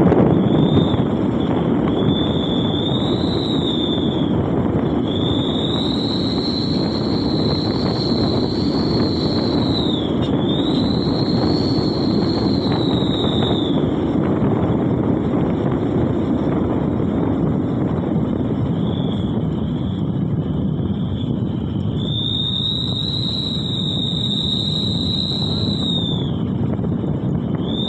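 Toyota Avanza driving, a steady dense rumble of engine and road noise, with a high whistling tone that swells and falls in long arcs several times.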